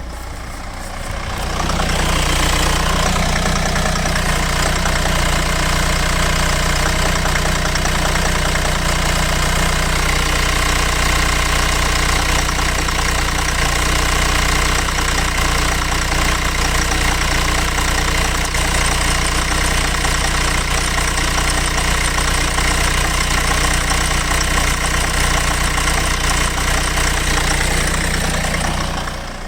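Mercedes W245 B-Class 2.0 CDI four-cylinder diesel idling warm, with a loud knock that sets in about a second and a half in and stops near the end. The owner cannot place the cause of the knock, which appears at idle after warm-up.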